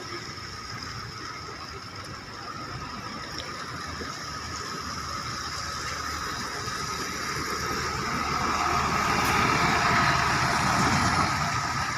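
Road traffic running on a wet road in the rain, with a vehicle growing louder and passing about ten seconds in.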